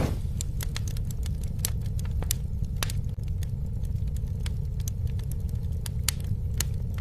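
Campfire burning, crackling with frequent sharp pops over a steady low rumble of the flames.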